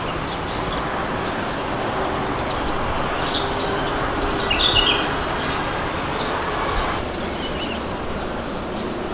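Steady wind noise with small birds chirping now and then, the clearest chirp about halfway through.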